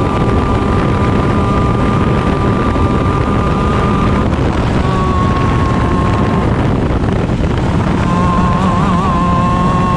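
Onboard sound of a stock Honda 125 cc two-stroke shifter kart engine running hard, under heavy wind noise on the microphone. The high engine note holds steady, breaks off about four seconds in, and returns briefly. It drops out again for a second or two, then comes back near the end.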